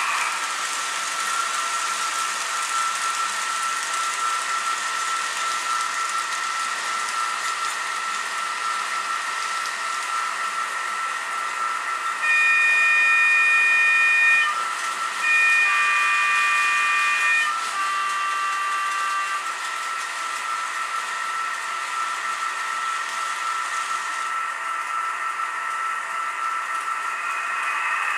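Fleischmann model diesel locomotive's DCC sound decoder playing diesel engine sound through its small speaker, a steady thin hissy drone. About twelve seconds in the horn sounds twice, two long loud blasts, followed by a softer two-tone horn call.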